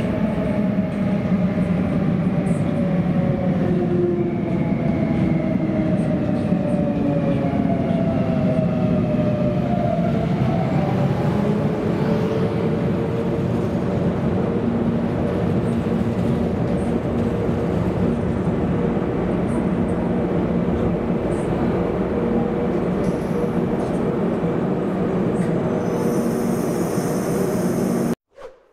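Locomotive-hauled passenger train of stainless-steel coaches running into an underground station platform, rumbling and echoing, with a whine that falls in pitch over the first ten seconds or so as it slows. A high hiss joins near the end before the sound cuts off suddenly.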